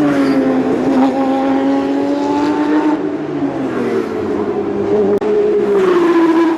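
Porsche 911 GT3 Cup race cars' flat-six engines at high revs on track. The engine note drops near the start, holds steady, sags in the middle and climbs sharply again near the end as the cars change speed and gear.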